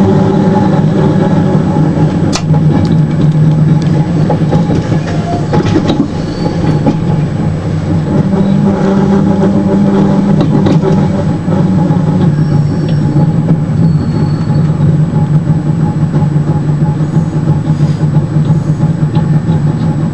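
Running noise inside an Intercity Notte passenger coach as the train slows on its approach to a station: a steady low rumble from the wheels on the rails, with scattered clicks and knocks over rail joints and points, and a few brief high squeaks.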